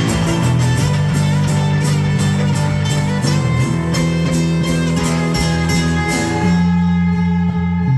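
Live band playing an instrumental passage on guitar, with steady, evenly paced strumming. About six seconds in, the strumming stops and a chord is left to ring.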